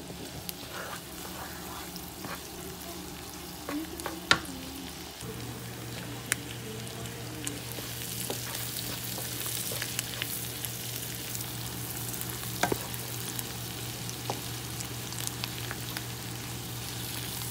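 Corn kernels with onion frying in butter and oil in a pan, sizzling steadily while a wooden spatula stirs them, with scattered clicks of the spatula against the pan. A low steady hum comes in about five seconds in.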